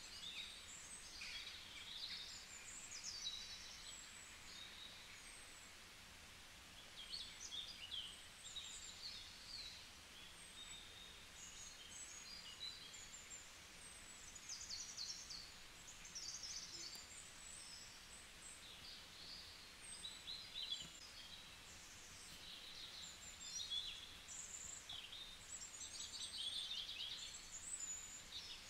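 Faint chirping and short trills of small birds, coming and going irregularly over a low steady background hiss.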